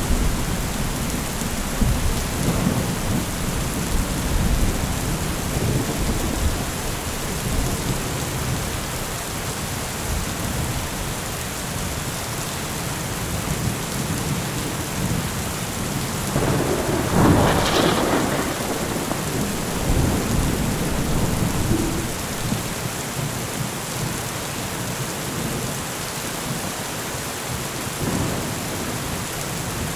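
Heavy rain falling steadily through a thunderstorm, with low rumbles of thunder. A louder clap of thunder comes a little past halfway.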